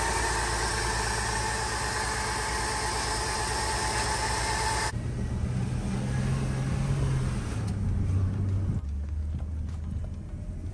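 Mercedes-Benz ML350's V6 engine idling steadily. About five seconds in, the sound cuts to inside the cabin while driving: muffled engine and road noise, with the engine note dropping in pitch twice.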